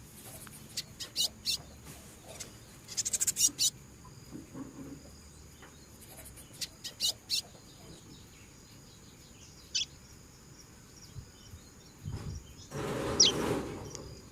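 Seedeater calling: scattered clusters of short, sharp high chips, and one down-slurred whistle near the end. Faint steady high-pitched buzzing lies underneath, and a burst of rushing noise comes near the end.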